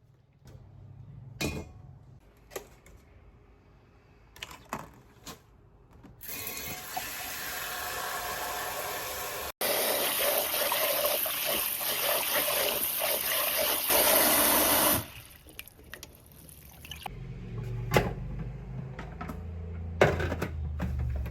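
Water running steadily from a tap, getting louder about ten seconds in and shutting off suddenly about fifteen seconds in. A few sharp knocks come before and after it, and a low rumble sets in near the end.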